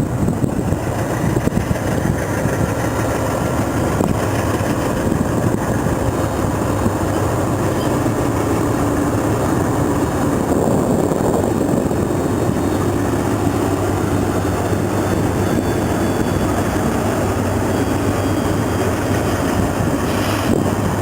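Diesel freight locomotive engines running steadily, with a deep, even rumble and a few steady low tones that grow stronger about halfway through.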